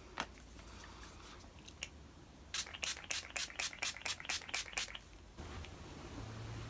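Pump-spray bottle of rose water facial mist spritzed about ten times in quick succession, roughly four short hissing puffs a second.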